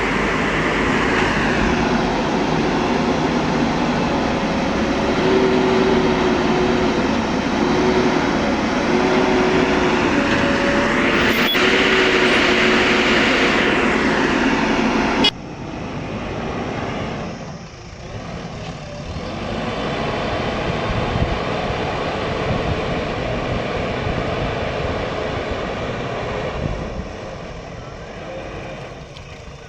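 Diesel engines of heavy machinery running hard under load, with a few short steady tones over them in the first half. About fifteen seconds in the sound cuts suddenly to a quieter, duller engine sound.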